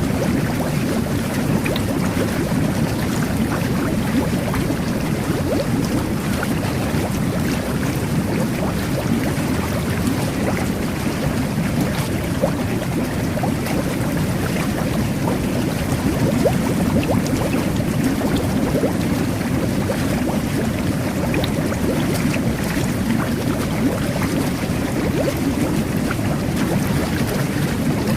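Jet bath (whirlpool tub) churning water: a steady bubbling rush with a deep low-pitched rumble and faint fizzing pops on top.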